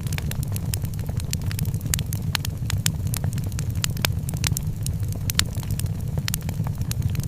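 Wood fire crackling in a fireplace: frequent sharp snaps and pops at irregular intervals over a steady low rumble.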